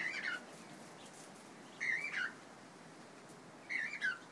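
A cockatiel calling: the same short wavering whistle that falls away at the end, three times about two seconds apart.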